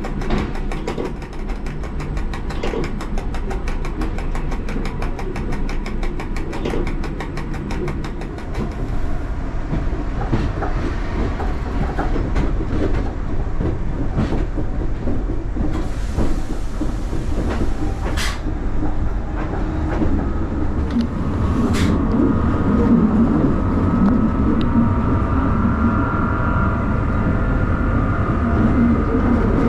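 Electric cog railway train running on its track. A fast, even ticking lasts for the first eight seconds or so, a few sharp clicks follow, and from about twenty seconds a whine rises over a heavier rumble.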